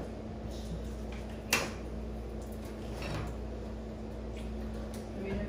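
Wire cage wall panels being handled and hooked together: one sharp metallic click about a second and a half in and a fainter one a little later, over a steady low hum.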